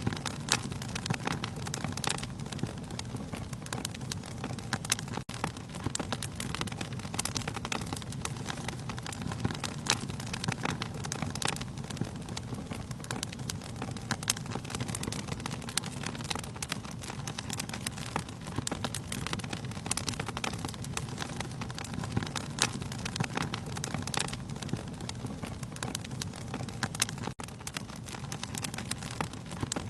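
Wood fire burning in a fireplace: a steady low rush of flames with frequent irregular crackles and sharp pops from the burning logs.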